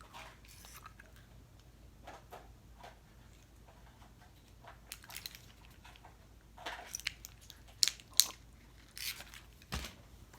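A person chewing gum with soft wet mouth clicks and smacks, a few louder ones in the second half.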